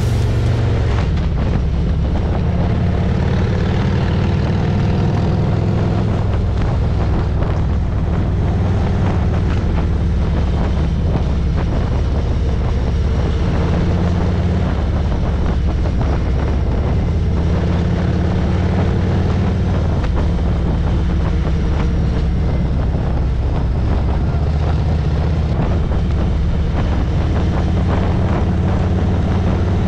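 Motorcycle engine running steadily while riding at speed, with wind rushing over the microphone.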